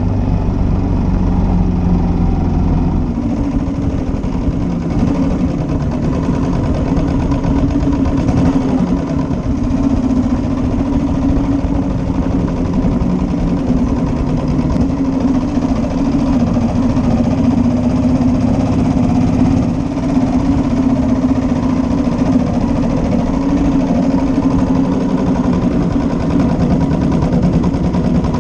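1941 Matchless G3L's 350 cc single-cylinder engine running steadily, its firing beat even throughout. A deep low rumble under it drops away about three seconds in.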